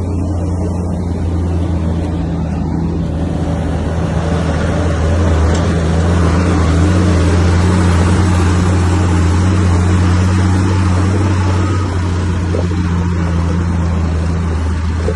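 Heavy diesel engine of earthmoving machinery running steadily with a deep hum, growing louder about a third of the way in and easing back after about two thirds.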